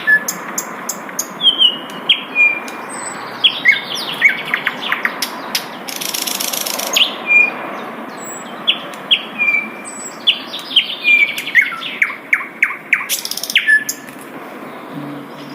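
A sikatan londo flycatcher singing: a varied run of short high chirps and whistled notes, some sliding downward, mixed with quick dry rattling trills, over a steady background hiss. A short rush of noise comes about six seconds in.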